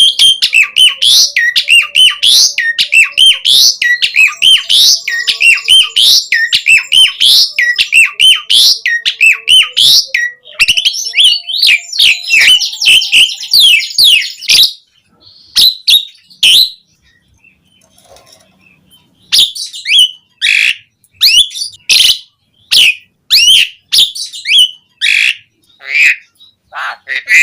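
Asian pied starling (jalak suren) singing a fast, dense run of chattering and whistled notes for about fifteen seconds. It then falls nearly silent for a few seconds and resumes with scattered single notes.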